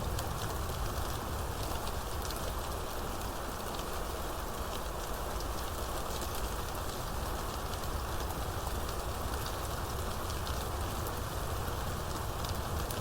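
Steady rainstorm: rain falling on surfaces with a dense, even patter of drops over a low steady roar.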